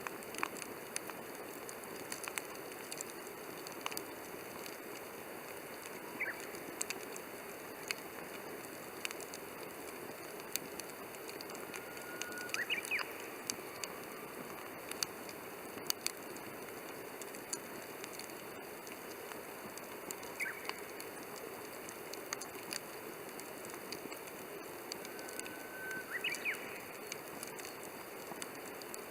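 Wood fire burning in a Coleman Fire Disc, crackling with scattered sharp pops over a steady hiss, with a few brief faint whistles.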